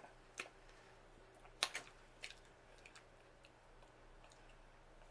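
A few sharp clicks and snaps while eating boiled seafood, the sound of shells being handled and broken. The loudest comes about one and a half seconds in, with a second right after it, and faint ticks follow.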